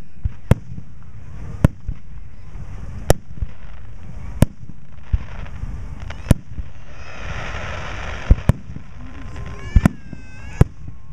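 Aerial fireworks shells bursting overhead: about ten sharp booms at uneven spacing, often a second or two apart and sometimes in quick pairs, over a steady low rumble.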